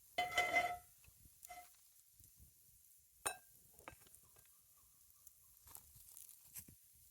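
Cookware clinking over a campfire: a metal utensil knocks against the pan with a short ring near the start, again more softly, and once sharply a few seconds in, with scattered faint ticks and pops of the fire between.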